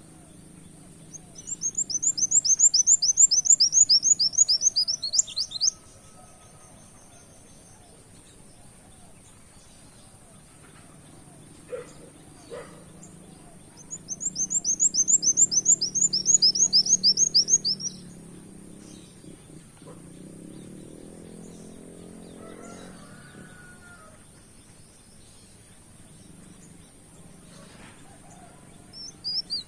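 A kolibri wulung sunbird singing in two bursts of about four seconds each, a fast run of high, sharply sweeping notes repeated several times a second, starting again near the end.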